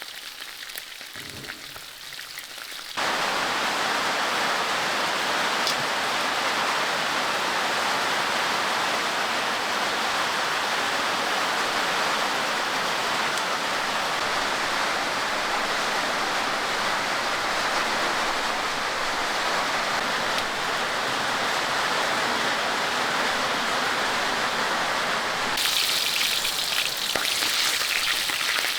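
Steady, heavy rain, a dense even hiss that starts abruptly about three seconds in. Near the end it gives way to a brighter crackling sizzle of food frying in a pan.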